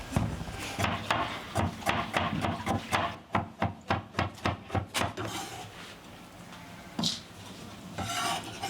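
A quick series of sharp knocks, about three a second, that fades out after about five seconds, followed by a single knock a couple of seconds later.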